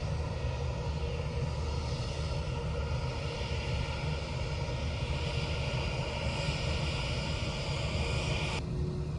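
Jet airliner's engines heard close by as a steady, rushing engine noise with a low rumble beneath. The higher hiss cuts off abruptly near the end, and the rumble carries on.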